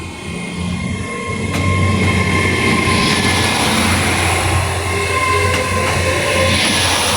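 Diesel train running close by at a station: a steady low engine hum with rail noise, growing louder about a second in and then holding steady.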